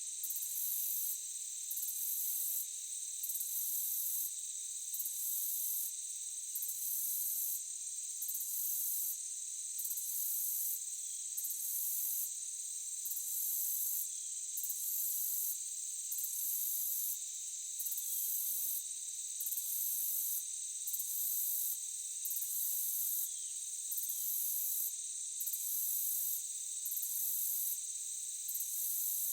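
Insects, crickets or similar, making a steady high-pitched drone overlaid with a rhythmic high chirp that pulses a little more than once a second. Faint short falling notes come in every few seconds.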